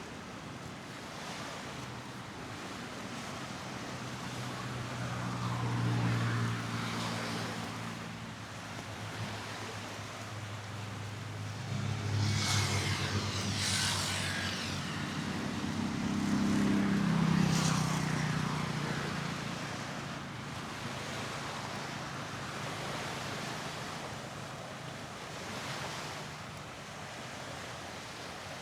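Motor vehicles driving past on a road: several engines swell and fade in turn. The loudest passes come about halfway through, one with its engine note rising.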